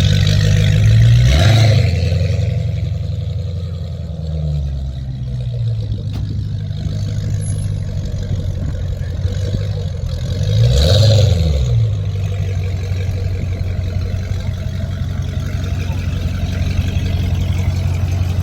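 Car engine idling with a loud low rumble, revved up and back down twice: briefly about a second and a half in, and again about eleven seconds in.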